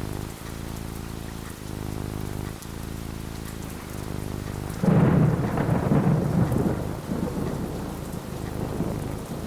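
Steady rain falling, with a sudden thunderclap about five seconds in that rumbles on for a few seconds and slowly dies away.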